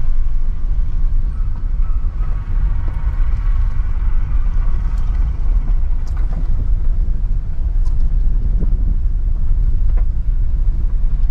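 A car driving, heard from inside the cabin: a steady low rumble of engine and road noise, with a hiss that swells and fades between about two and six seconds in and a few faint knocks.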